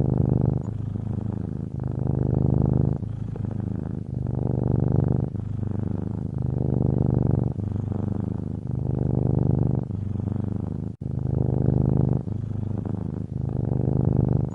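Cat purring close up, the purr alternating steadily between in-breath and out-breath about once a second, with a momentary break about eleven seconds in.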